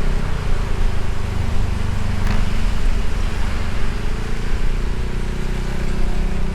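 Motorbike engine running at cruising speed under a steady rush of wind and road noise, its note rising a little about four seconds in as it accelerates, with one brief click about two and a half seconds in.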